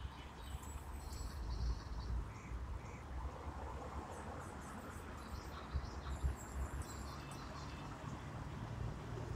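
Outdoor ambience: scattered short, high chirps from birds or insects over a constant low rumble.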